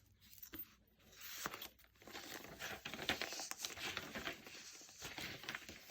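Paper rustling and crinkling with small clicks as the pages, tags and inserts of a handmade junk journal are handled and turned, starting about a second in.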